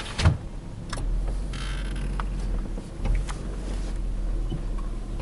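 Car engine idling, a steady low hum heard from inside the cabin, with a sharp thump just after the start and a few light clicks.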